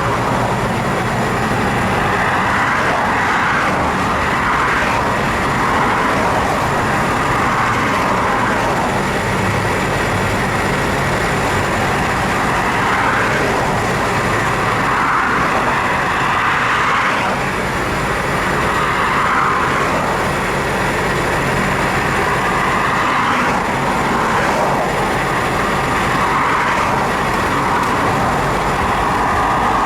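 Steady vehicle engine and road noise, a continuous hiss that swells and eases gently, with a low engine hum underneath.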